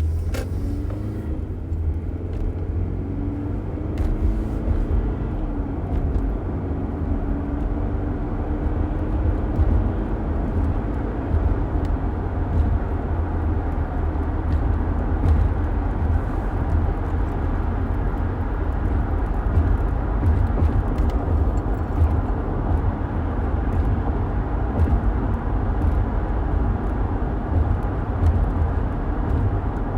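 Car driving, heard from inside: a steady low rumble of road and engine noise. Over the first several seconds a faint engine tone rises in pitch as the car picks up speed. A short click comes right at the start.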